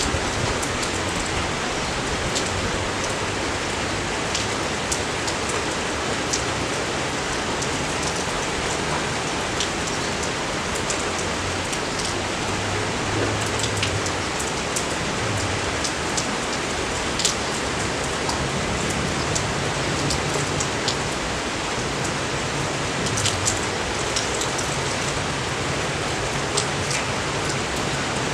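Steady rain falling, an even hiss with scattered sharp ticks of individual drops hitting close by.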